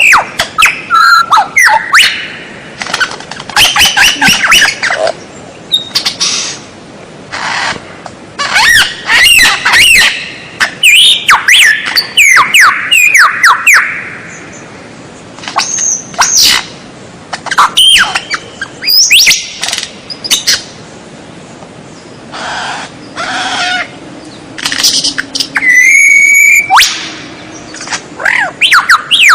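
Songbird singing loud, varied phrases of clear gliding whistles mixed with harsh rasping notes, with short pauses between phrases.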